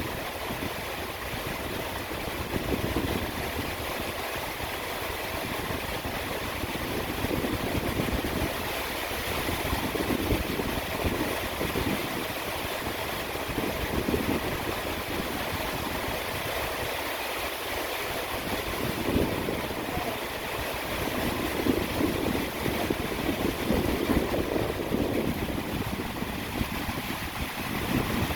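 Steady rain, a constant hiss, with low rumbling swells that rise and fall every few seconds.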